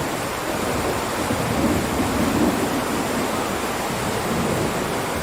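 Heavy rain downpour, a steady rushing hiss, with a low rumble swelling about two seconds in.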